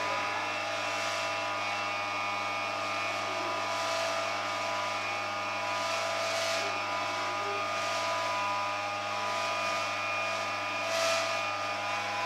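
A machine running at a constant speed: a steady whine made of several unchanging tones, with no rise or fall in pitch.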